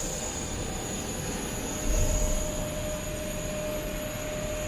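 Steady cabin hum of a parked Airbus A350-900 airliner, with a constant mid-pitched tone and a high whine over it. A dull low thump comes about two seconds in.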